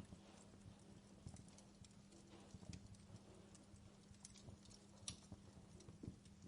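Wood log fire in a fireplace crackling faintly, with scattered irregular pops, the sharpest about five seconds in, over a low steady hum.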